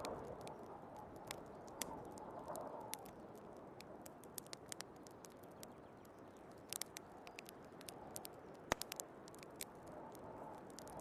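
Wood fire crackling in a fireplace: irregular small pops and snaps, with one sharper pop a little before the end. Behind it a soft wind noise swells at the start and again near the end.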